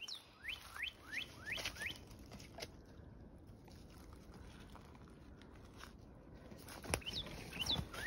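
A bird calling in runs of short rising chirps, about three a second, at the start and again near the end, with a few sharp crackles near the end.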